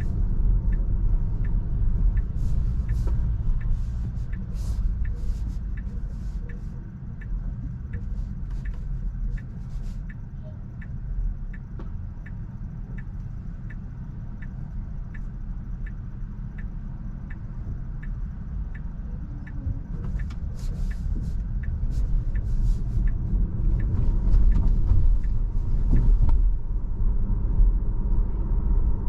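Road and tyre rumble inside a Tesla's cabin, with the turn-signal indicator ticking steadily about one and a half times a second. The rumble eases in the middle and builds again near the end as the car slows and then picks up speed.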